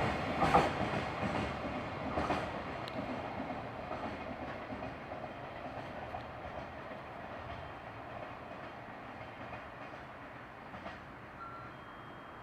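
Electric train running past on the rails, with a few wheel clacks over rail joints early on, its noise fading steadily as it moves away.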